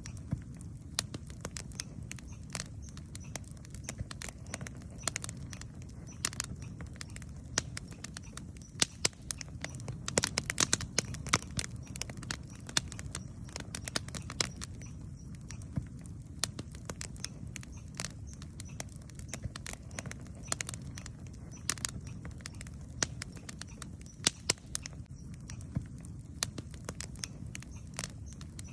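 Wood campfire burning with a steady low rumble of flame and irregular sharp crackles and pops, busiest about a third of the way in.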